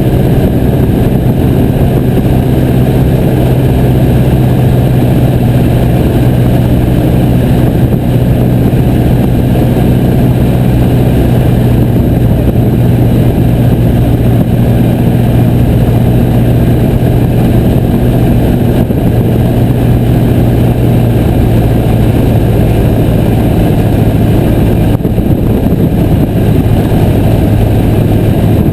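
A Piper J3 Cub's piston engine and propeller running steadily at a constant pitch.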